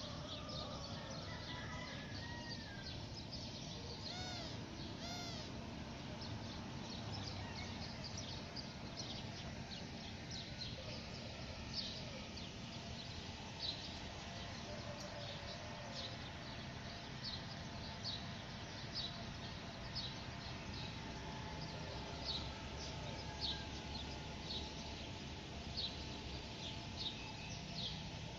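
Small birds chirping over and over with short high notes, with two louder arched calls about four to five seconds in. A steady low background noise runs underneath.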